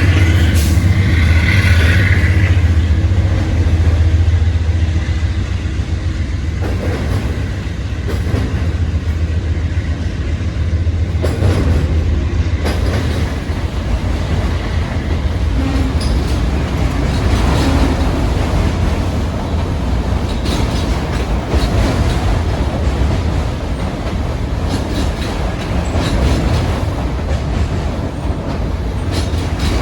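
A train rolling past: a deep engine rumble in the first few seconds, then the steady rattle and clickety-clack of its cars' wheels over the rail joints.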